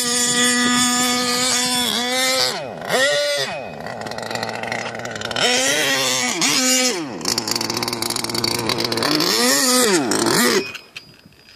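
HPI Savage XL Octane RC monster truck's small gasoline two-stroke engine running at a steady high note, revving up and dropping back several times, then cutting off near the end.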